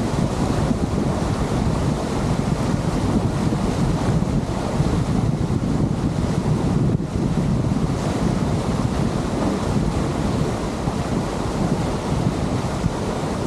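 Steady wind buffeting the microphone, with water rushing along the hull of a lake passenger boat under way.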